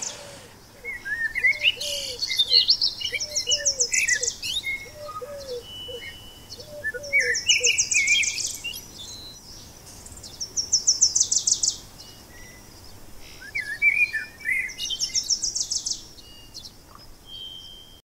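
Several wild birds singing, a dawn-chorus style recording. A high, rapid trill repeats every few seconds over lower warbled phrases, and a run of short, low notes sounds through the first half.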